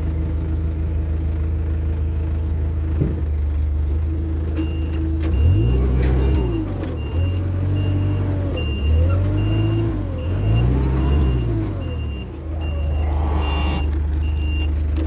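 Diesel engine of a 6-ton dump truck running, revving up and back down three times, while a reversing beeper sounds evenly, about one and a half beeps a second. A short hiss comes near the end.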